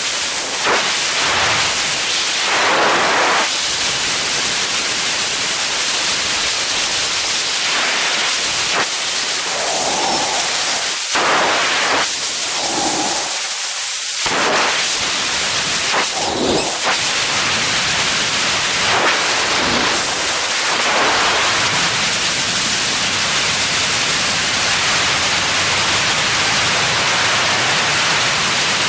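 Loud, steady rushing hiss of air, with brief swells now and then.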